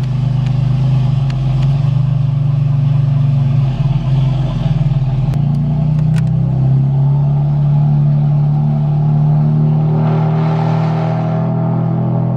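BMW M4's twin-turbo straight-six with downpipes and a JB4 tune, heard from inside the cabin, running at a steady drone while cruising, with a louder rush of noise about ten seconds in.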